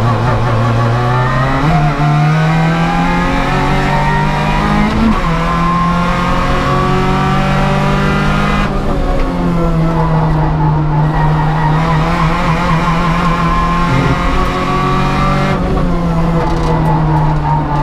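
The four-cylinder engine of an Opel Kadett GSI 2.0 Group N race car, heard onboard at racing speed. Its pitch climbs in long sweeps that break at the gear changes, about five and nine seconds in and twice more later on.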